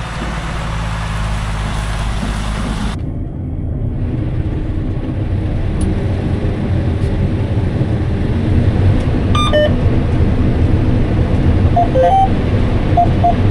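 Steady engine and machinery drone heard from inside the cab of harvest machinery working a corn field. About three seconds in the sound changes abruptly and then slowly grows louder. In the second half come a few short electronic beeps from the cab's monitors.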